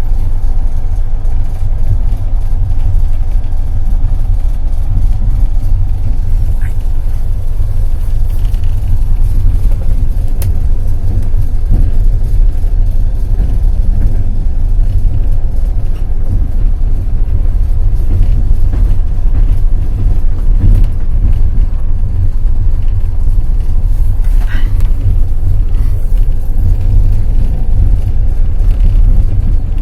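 Passenger train carriage rolling along the track: a steady, loud low rumble of wheels on rails.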